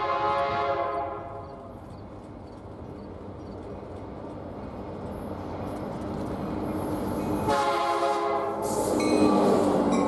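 Diesel locomotive horn sounding a blast at the start and another about seven and a half seconds in, while the approaching train's running noise grows steadily louder.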